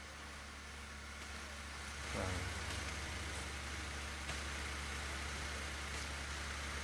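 SUV engine running low as the vehicle pulls up and idles, a steady low hum that grows louder about two seconds in. A brief voice sounds at that moment.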